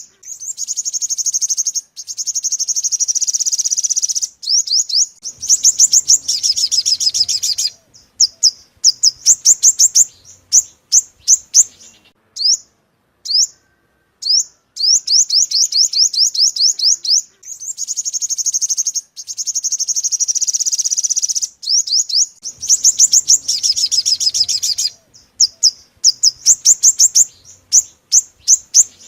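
Yellow-bellied sunbird song played as a lure call: rapid high trills and runs of sharp chirps, the same sequence repeating about every 14 seconds.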